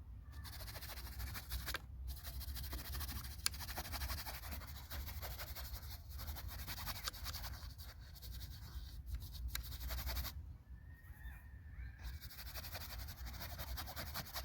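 Paintbrush scrubbing paint onto the painting surface in quick, scratchy strokes, pausing for a second or two about ten seconds in, over a steady low rumble.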